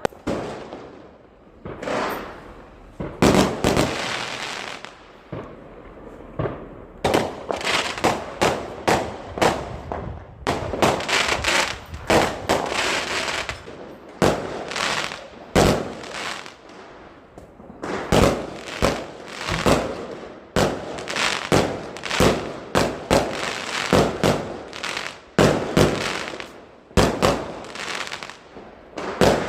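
Fireworks going off: a rapid, irregular run of sharp bangs and crackles, many in quick succession, each with a short echoing tail.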